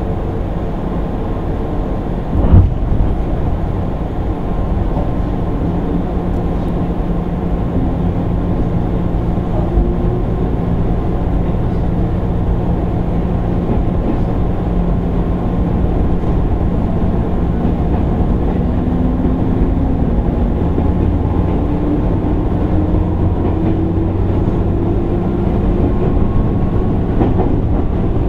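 Running sound of a JR East 205 series 600 electric train, motor car MoHa 204-604: a steady rumble of wheels on rail, with a faint motor whine that rises slowly in pitch over the second half. One loud knock comes about two and a half seconds in.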